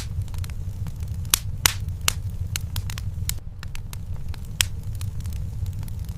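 Wood fire burning in a fireplace, with irregular sharp crackles and pops, a few louder ones, over a steady low rumble.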